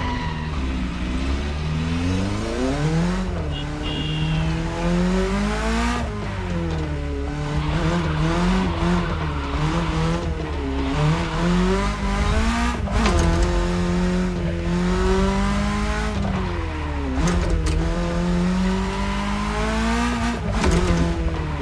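BMW E30's engine under way, its pitch climbing as it revs and dropping sharply at each gear change, several times, with stretches of steadier running between.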